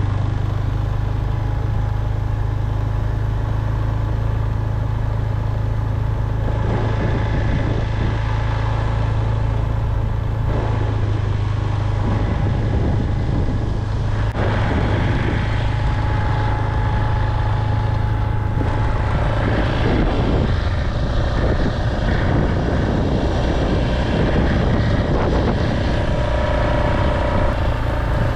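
A vehicle engine running steadily with road noise while driving, a constant low hum under a rushing noise.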